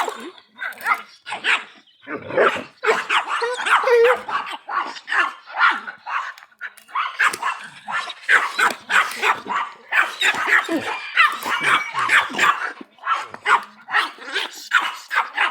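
Dogs barking in quick, continual bursts, several barks a second.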